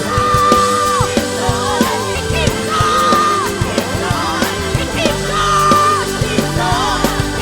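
Live worship band music with drums and a high melody line of long held notes, each followed by a quick wavering run.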